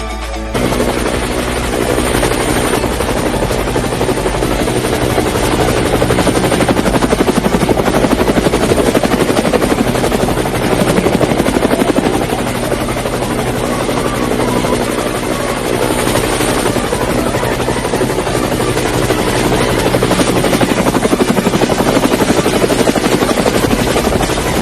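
Homemade bottle helicopter's small electric motor spinning its propeller: a steady whirr with a fast flutter, starting about half a second in.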